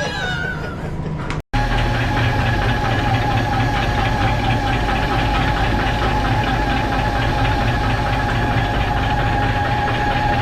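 Prawn trawler's engine running steadily: a low drone with a held whine over it and a fast, even beat, starting abruptly about a second and a half in.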